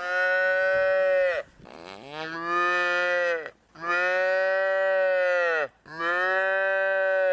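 Cow mooing: four long calls, each held on one pitch and dropping off at the end.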